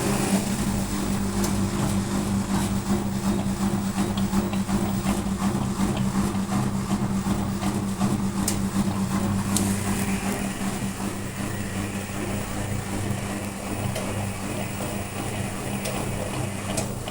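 Washing machine running its wash cycle, the motor giving a steady low hum with scattered faint clicks. About ten seconds in, a faint higher whine joins in.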